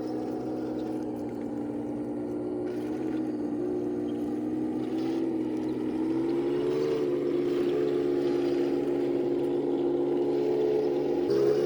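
Radio-controlled M46 Pershing model tank running, a steady droning engine-like hum whose pitch drifts down and up as it drives, rising near the end.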